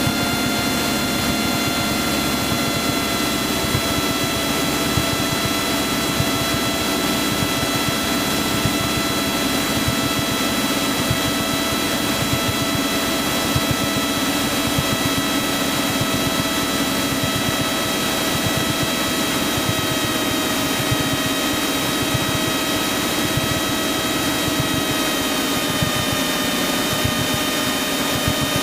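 Cessna 172's piston engine and propeller heard inside the cockpit, a steady drone on the approach to land. Its note sinks slightly a little past the middle and again near the end.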